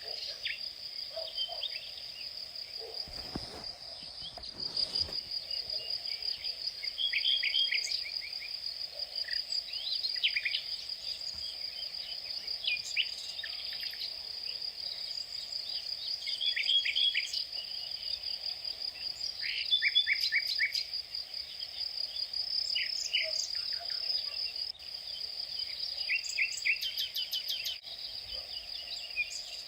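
Outdoor insect chorus: a steady, high-pitched insect trill runs on unbroken, while birds chirp in short quick series every few seconds. A brief low rumble comes about three seconds in.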